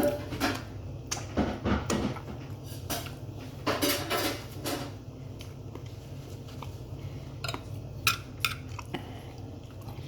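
Cutlery clinking and scraping on a plate during a meal: a run of short scrapes and clicks over the first five seconds, then a few sharp separate clicks near the end.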